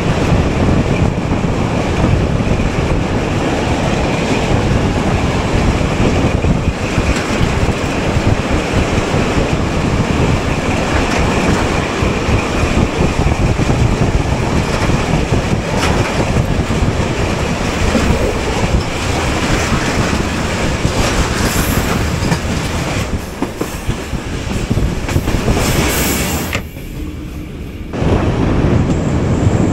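Passenger train running on the rails, heard from inside a carriage: a steady rumble and rattle of wheels over the track, which dips briefly near the end.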